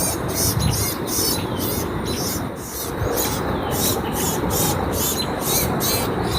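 Grackle giving rapid high-pitched distress chirps, about three to four a second, as a bird caught by a hawk. A steady low rumble runs underneath.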